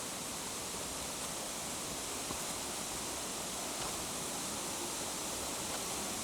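Rushing water, a steady even hiss that does not change.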